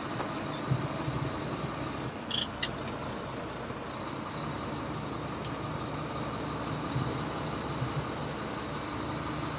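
Semi-truck diesel engine running steadily at low revs, with two brief high clicks about two and a half seconds in.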